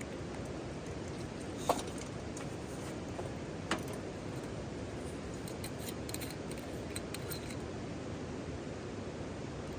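Steady hiss of rain with a campfire crackling: two sharp pops about two seconds apart, then a few faint ticks.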